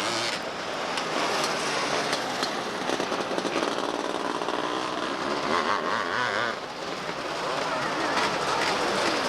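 Engines of small open-wheel race cars running on a track, several at once, their pitch rising and falling as they pass and go through the turns.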